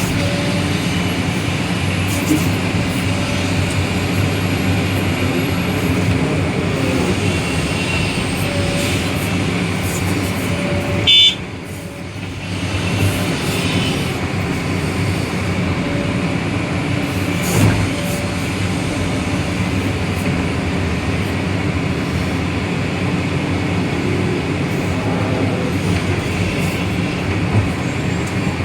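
Diesel engines of an excavator and dump trucks running steadily under load. About eleven seconds in there is a short high-pitched tone, after which the engine noise dips and then builds back up.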